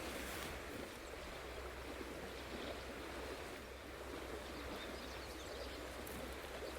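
Faint, steady outdoor ambience: an even hiss with a low hum beneath it and no distinct events.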